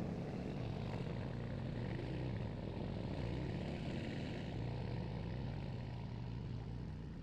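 A vehicle running steadily: a continuous low rumble of engine and road noise, easing off slightly near the end.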